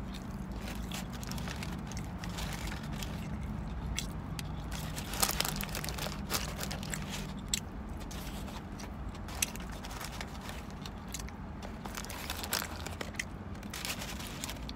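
A person chewing and biting a crispy lumpia burger up close to the microphone, with irregular crisp crunches and mouth clicks. A low steady hum sits underneath.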